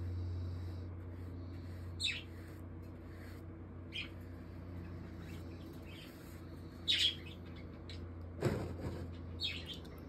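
Several short bird chirps, each a quick falling note, scattered over a steady low hum.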